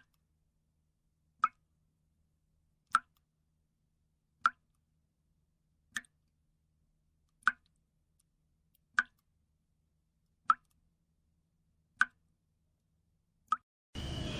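Single water-drop plops, nine in all, evenly spaced about one and a half seconds apart, with near silence between them.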